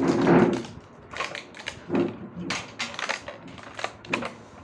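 Irregular crinkling and crackling of a cake's wrapper being pushed about while the cake is eaten mouth-first, without hands. A louder, lower burst comes right at the start.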